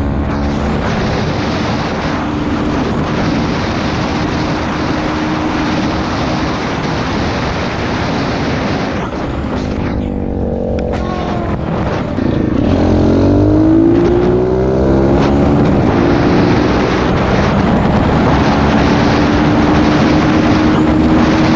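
Pit bike engine running while riding, with wind rush on the microphone. It eases off for a few seconds around the middle, then revs up and holds a higher, louder pitch.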